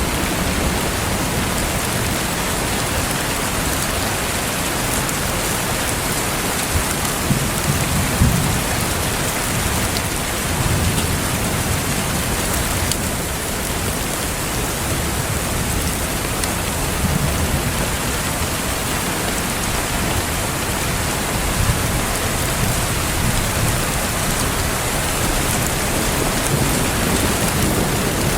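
Steady rain falling, with low rumbles swelling up a few times.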